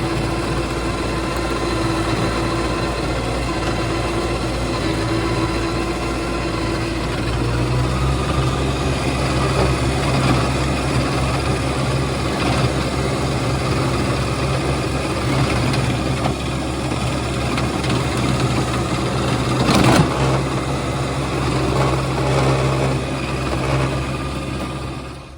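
John Deere 2025R compact tractor's three-cylinder diesel engine running steadily under load while driving a rear rototiller through hard trail ground. The engine note shifts about a third of the way in, and there is a single sharp knock near the end.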